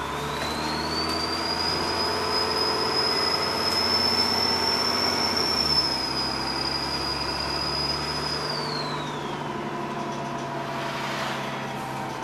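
Turbocharger whistle of a Dennis Trident double-decker bus with ALX400 body, over its diesel engine: the whistle rises in pitch about a second in as the turbo spools up under load, holds at a high steady pitch, then falls away about nine seconds in as it spools down.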